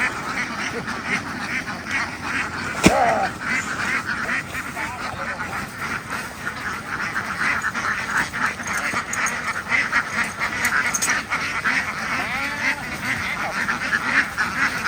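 A large flock of domestic ducks quacking in a dense, continuous chorus. A single sharp knock about three seconds in stands out as the loudest sound.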